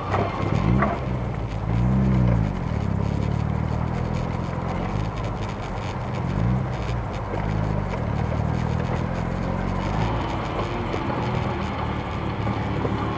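Car engine running while the car creeps along in slow traffic, heard from inside the car, with road and traffic noise. The engine note rises and falls briefly about two seconds in and again around six seconds.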